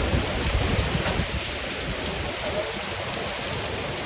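Heavy rain falling steadily, a constant hiss of downpour, with some low gusty rumble on the microphone in the first second or so.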